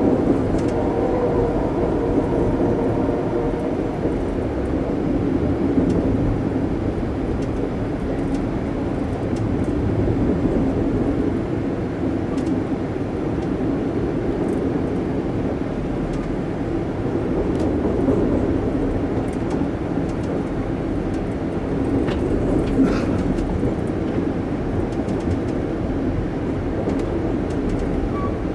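Amtrak passenger train running along the track, heard from aboard: a steady rumble of wheels on rail with a few faint clicks. The train's horn fades out in the first second.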